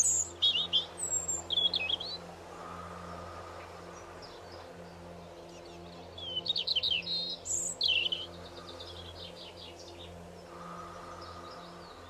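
A songbird singing in two loud bouts of quick, high chirps and warbles, one right at the start and one about six seconds in, with fainter trills near the end, over a steady low hum.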